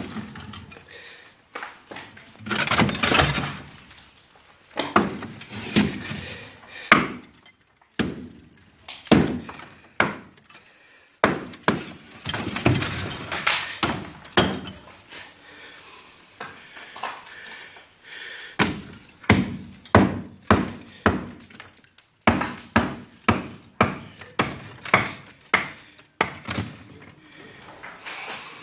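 Masonry being broken apart by hand: repeated blows on brickwork with crashes of bricks and mortar breaking and falling. Irregular crashes in the first half, then a steady run of blows, somewhat more than one a second, in the second half.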